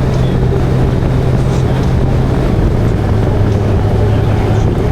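Motorcycle engine running steadily at road speed under a rush of wind noise. Its steady low drone drops slightly in pitch about three seconds in.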